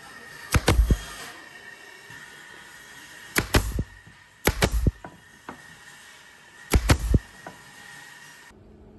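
Sharp knocks in four quick clusters of two to four strikes each, over a faint steady high hum that cuts off near the end.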